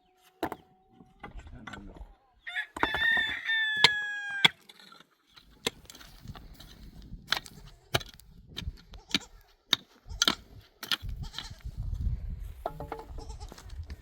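A rooster crows once, one pitched call of about two seconds. Scattered sharp clicks and knocks follow, and a low rumble comes in near the end.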